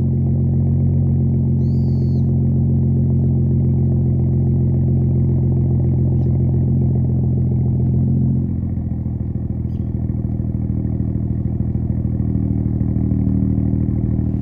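BMW M235i's N55 turbocharged inline-six idling through a muffler-delete straight-pipe exhaust, a steady exhaust drone. About eight seconds in, the idle steps down and gets a little quieter.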